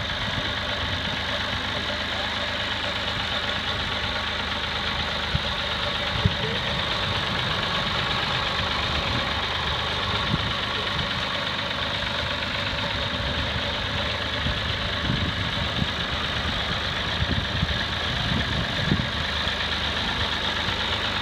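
Tractor engine running steadily, with a few brief sharp knocks.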